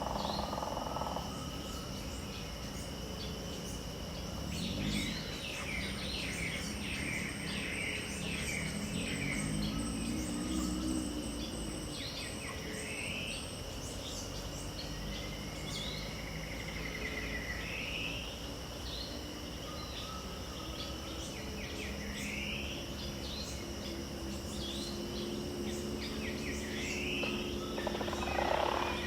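Dawn chorus in the Pantanal wetland: steady high buzzing of insects with scattered bird calls, short rising and falling whistles repeated every few seconds, a burst of chattering calls early on, and a louder flurry of calls near the end.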